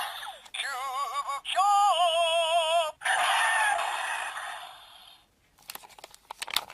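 Zyuoh Changer Final toy playing electronic sound effects through its small speaker: two warbling, wavering electronic tones, then a hissing burst that fades away, followed by a few sharp clicks near the end.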